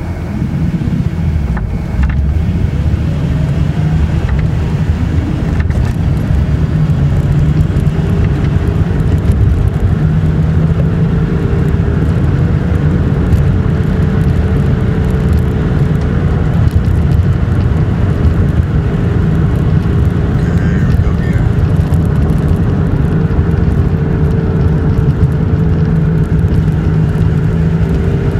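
Inside the cabin of a 2001 Nissan Maxima on the move: a steady low rumble with a droning hum that rises in pitch over the first several seconds and then holds. The rumble rises and falls with road speed rather than engine rpm, which the owner suspects comes from worn wheel bearings or races.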